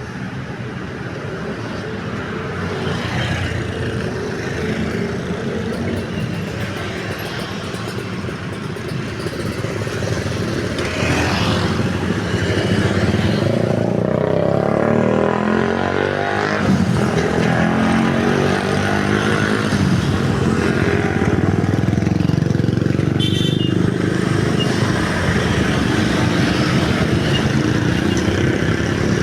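Road traffic at a railway level crossing: motorcycles and cars running past. It grows louder about a third of the way in and then stays loud.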